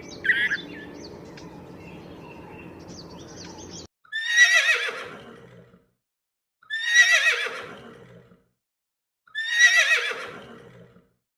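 A few bird chirps over a steady hiss that cuts off abruptly, then a horse whinnying three times, about two and a half seconds apart: each a quavering call that falls from high to low.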